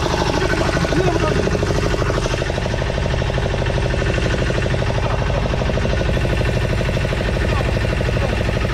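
Boat engine running steadily with an even, rapid chugging pulse.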